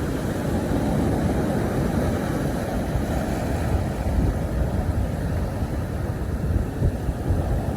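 Sea surf washing steadily on the shore, an unbroken wash with a deep rumble.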